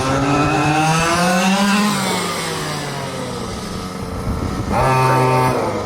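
Several quarter-scale RC super trucks racing, their small engines revving up and down and overlapping as they lap. One truck's engine grows loud and steady about five seconds in as it passes close.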